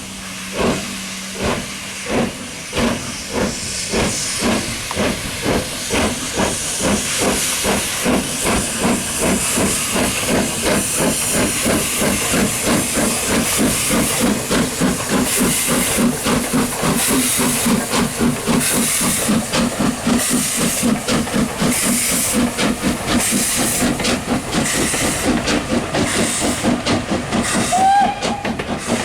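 Steam locomotive pulling away: exhaust chuffs start about two a second and steadily quicken into a fast rhythm, with steam hissing throughout. A brief high note sounds near the end.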